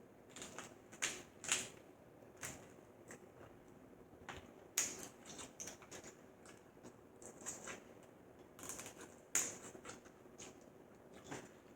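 Snow crab leg shells cracking and snapping as they are broken open and eaten close to the microphone: a scattering of sharp, irregular clicks and cracks.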